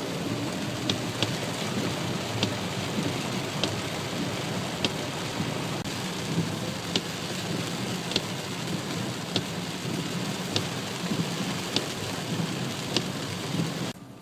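Heavy rain falling steadily, with a faint sharp tick repeating about every second. The rain sound cuts off abruptly just before the end.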